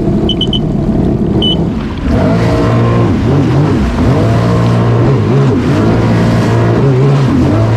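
Sea-Doo personal watercraft engine running, its pitch rising and falling with the throttle and getting louder about two seconds in. A few short high beeps sound in the first second and a half.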